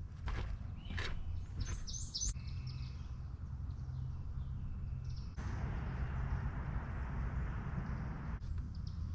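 Outdoor ambience with a short cluster of high bird chirps about two seconds in, over a steady low rumble.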